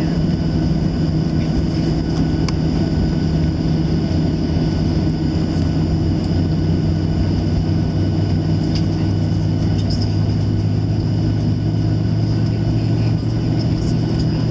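Steady cabin drone of a Boeing 737-700's CFM56-7B turbofan engines at low taxi power, heard from inside the passenger cabin. A deep hum swells a little about two-thirds of the way through, with a few faint clicks.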